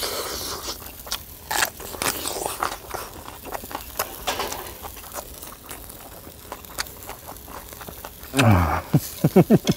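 Close-miked chewing of a mouthful of charcoal-grilled pork neck, with many short, irregular wet clicks and smacks. Near the end a voice gives a brief drawn-out sound that falls in pitch.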